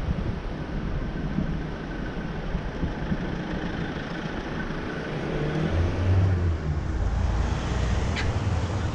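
Street traffic with wind rumble on the microphone; a motor vehicle's engine comes close and grows louder about six seconds in.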